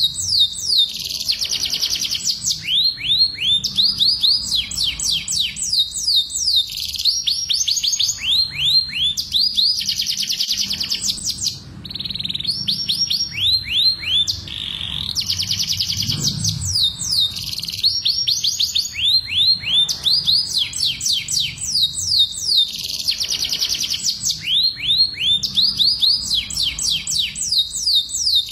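Domestic canaries singing: long, rapid trills of repeated downward-sweeping notes, broken by short pauses. This is the full breeding-season song of a male canary, mixed with a hen's calling.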